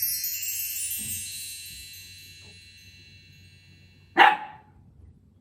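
A cascade of chime or bell-tree tones ringing out and fading over the first few seconds, then a single short, loud sharp sound about four seconds in.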